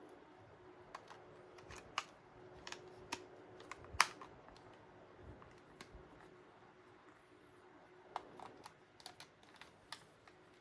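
Sony WM-51 cassette Walkman being handled: scattered small plastic clicks and knocks, such as its buttons and cassette door, the loudest about four seconds in, over a faint steady hum.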